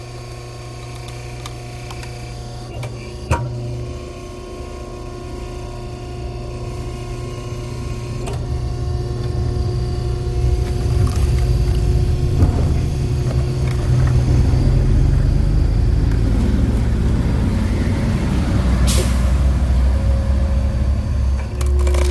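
Firewood-splitting machine's motor running with a steady low hum. It grows louder about ten seconds in and then holds. There is a sharp click about three seconds in.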